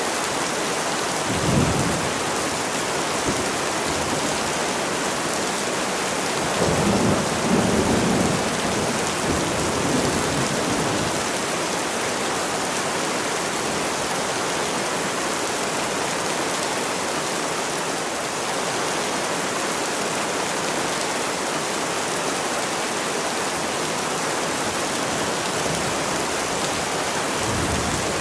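Steady heavy rain. A short low rumble of thunder comes about a second and a half in, and a longer rolling rumble from about six to eleven seconds in.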